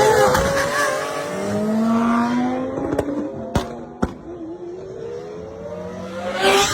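High-revving sports car engines accelerating and passing by, their pitch falling as each car goes past and climbing as one revs up. Two sharp cracks come about halfway through.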